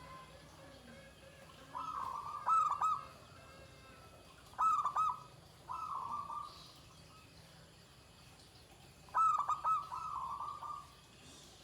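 Perkutut (zebra dove) cooing: about four song phrases, each a rolling purr with a burst of sharp, quick, louder notes, separated by short pauses.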